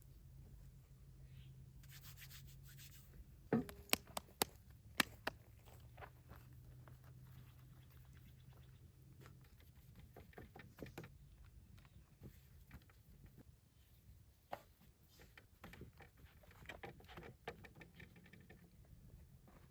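Faint cooking-handling sounds: scraping and rubbing, with a quick run of sharp knocks or clinks about four to five seconds in and scattered small clicks later. Under them runs a low steady hum that stops about nine seconds in.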